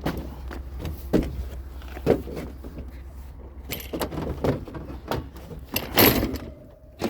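Knocks and clanks of curbside scrap being handled and loaded, over a steady low vehicle engine idle, with the loudest clattering crash about six seconds in.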